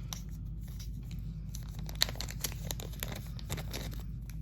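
Plastic packaging being torn open and crinkled by hand, a run of crackling rustles with a sharp snap about two seconds in.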